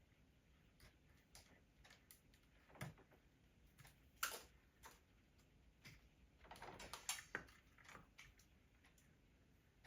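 Faint, scattered clicks and rattles of small metal hose clamps and a pincer tool being handled, with a sharper click about four seconds in and a brief flurry of clicks a few seconds later.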